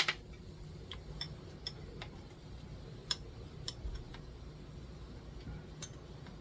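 Scattered light clicks and clinks of tableware, chopsticks or spoon against dishes and glass, during a meal: a sharper click right at the start, then about six lighter ones spread out. A steady low hum runs underneath.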